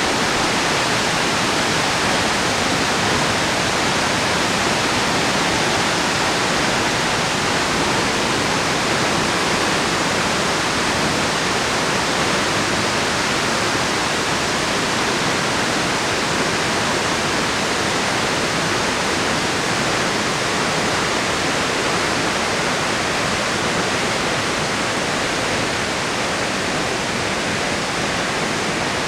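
Concrete arch dam's flood release: a steady, heavy rush of water pouring from the outlets and crashing below.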